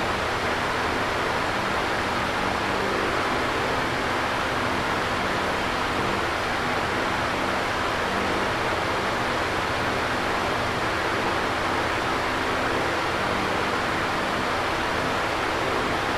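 Electric fan running steadily: an even airy whoosh with a faint low motor hum beneath it.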